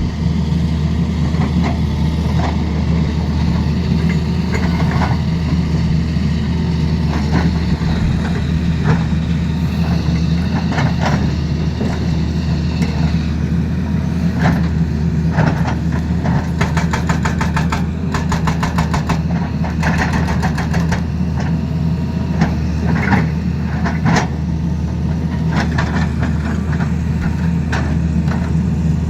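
Excavator's diesel engine running steadily, with a stretch of rapid, closely spaced knocks a little past halfway.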